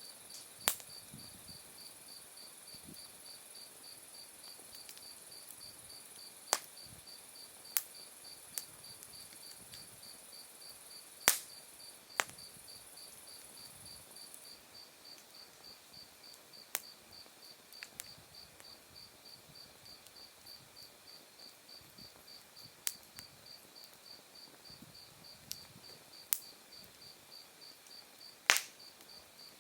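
Crickets chirping steadily in an even pulsed rhythm, with a second, higher-pitched insect trill that stops about halfway through. Over them an open wood fire of glowing embers pops and crackles with about a dozen sharp, scattered snaps, the loudest about a third of the way in and near the end.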